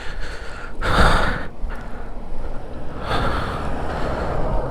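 A person breathing close to the microphone: a noisy breath about a second in and a longer one from about three seconds in, over a steady low rumble.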